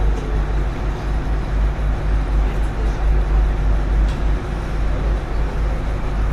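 A boat under way: a steady, loud engine rumble with wind buffeting the microphone.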